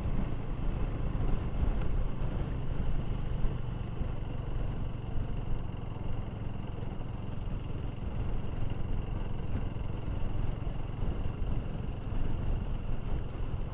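KTM 390 Duke's single-cylinder engine running steadily, under a constant hiss of wind and road noise.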